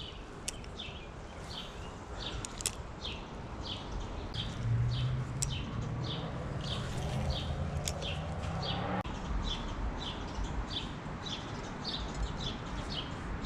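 A bird calling over and over, short high falling chirps about twice a second. A low whirring runs underneath from about four to nine seconds in.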